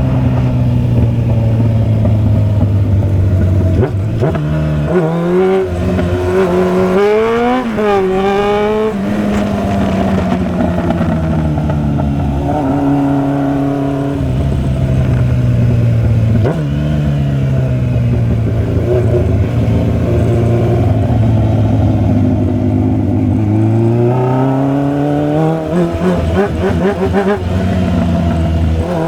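Motorcycle engine heard while riding, cruising steadily, then accelerating hard twice with the pitch climbing in quick steps as it runs up through the gears, once about a third of the way in and again near the end.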